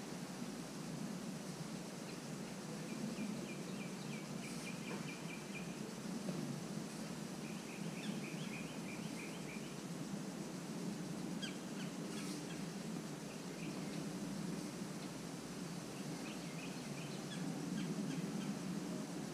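A small bird calling in three quick runs of repeated high chirps, each run about two seconds long, over a steady low background hum.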